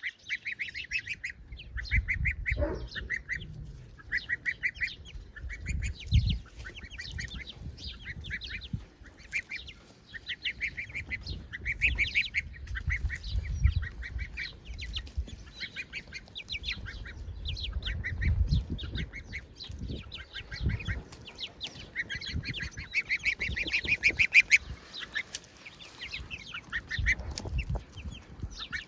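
A gosling peeping over and over in quick runs of short, high calls. Irregular low rumbles sound underneath.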